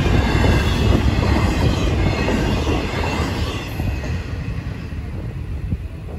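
Tail end of a freight train of double-stacked intermodal container cars rolling past over a grade crossing: a steady rumble and clatter of wheels on rail. It falls off at about four seconds in as the last car clears, leaving a fainter receding rumble.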